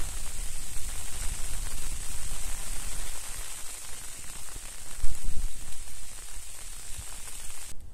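Steady hiss of rain falling, with a low rumble underneath; it cuts off abruptly near the end.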